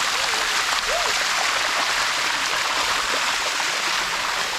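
Shallow water of a waterfall cascade rushing steadily over rocks.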